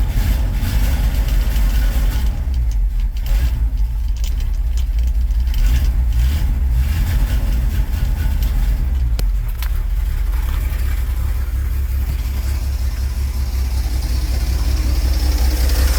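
Ford 300 cubic-inch (4.9 L) inline-six engine idling steadily just after catching on a hand-closed choke. The owner puts its poor running down to a cheap carburetor.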